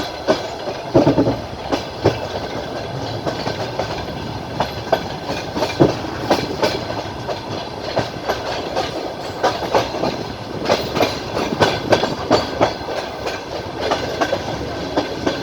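Wheels of a moving train clattering over the rail joints, heard from on board: a steady rumble with sharp, irregular knocks several times a second.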